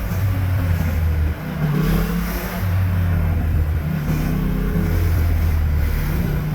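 Yamaha MT-07's parallel-twin engine through a Leovince underbody exhaust, running at low revs while riding, its pitch stepping up and down with the throttle. There is a brief dip in loudness about a second and a half in.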